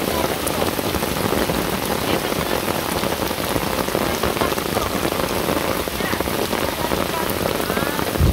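Steady rain falling and pattering densely on surfaces.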